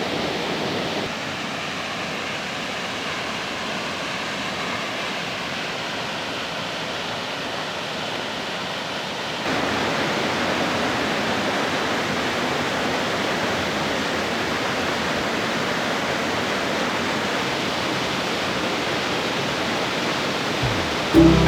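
Rushing water of a waterfall, a steady even roar, slightly quieter from about a second in and fuller again from about nine seconds in.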